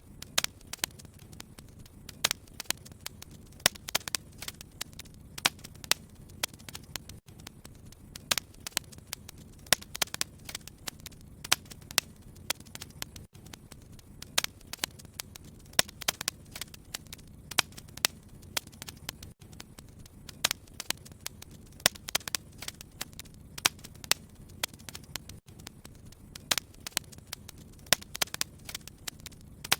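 Wood fire crackling in a fireplace: a dense, irregular run of sharp pops and snaps over a steady low rumble of the flames.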